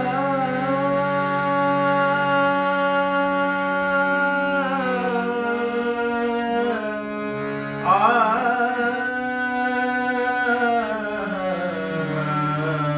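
Slow Hindustani classical-style alaap: long held wordless sung notes, ornamented and gliding, over a steady drone. It introduces the song's melody before the lyrics begin.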